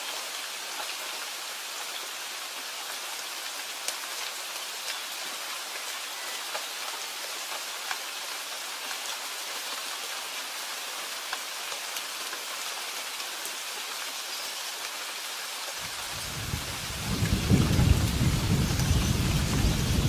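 Steady rain with scattered ticks of single drops. About three-quarters of the way through, a deep rumble of thunder builds up and rolls on, becoming the loudest sound.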